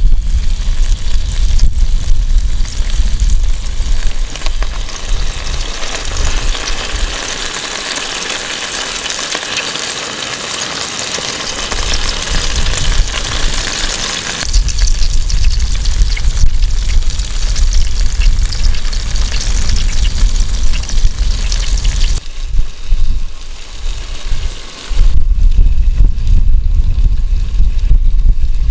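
Food sizzling and frying in a pan, a steady crackling hiss. Wind rumbles on the microphone at the start and again near the end.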